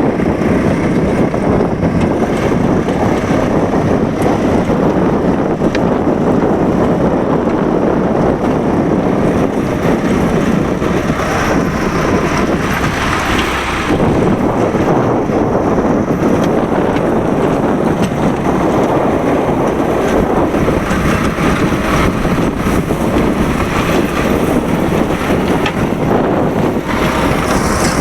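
Swaraj 742 XT tractor's diesel engine running steadily under load while driving a rotavator.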